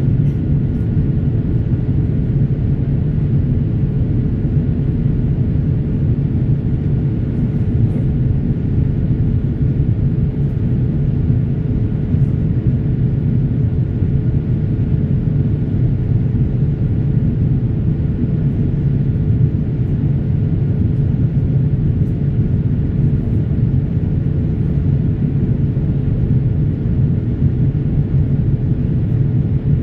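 Boeing 787 Dreamliner jet engines and airflow: a steady low rumble with a faint steady hum over it.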